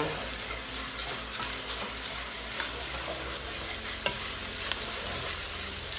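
Chicken, sausage and vegetables sizzling in a pot while a wooden spoon stirs them, with two sharp clicks a little after four seconds in.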